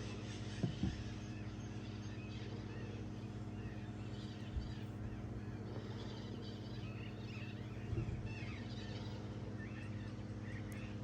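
Steady low hum with faint bird chirps over it and a few soft knocks, about a second in and again near the end.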